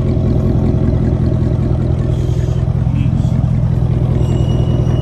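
2006 Dodge Charger R/T's 5.7-litre Hemi V8 running steadily through a straight-piped exhaust, mufflers and resonators removed with the catalytic converters kept. It is a deep, even drone with no revving.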